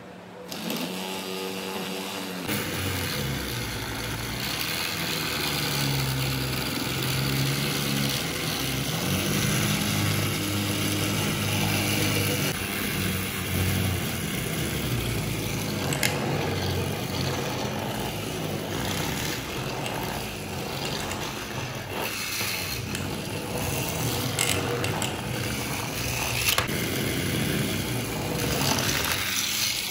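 Small DC hobby motor running, a whirring, rattling buzz whose pitch shifts up and down.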